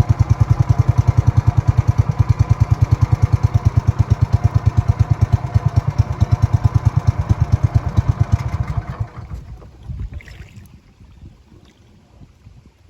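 A small engine running with a rapid, even pulse, which dies away about nine seconds in, leaving only faint scattered sounds.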